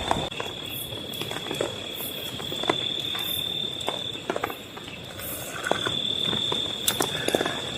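Insects trilling on one steady high note, over a hiss of background noise with scattered sharp taps and ticks.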